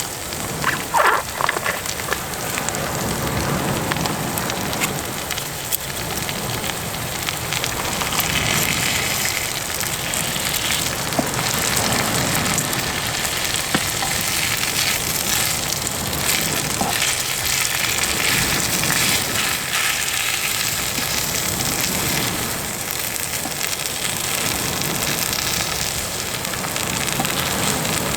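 Food sizzling and crackling steadily in a hot frying pan, with a couple of light clicks about a second in.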